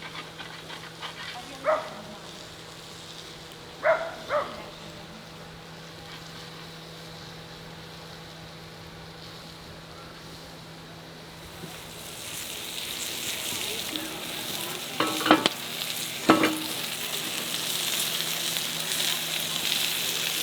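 Food sizzling in a frying pan: the sizzle swells up about twelve seconds in and keeps going, with a few sharp knocks of a utensil against the pan early on and again near the end.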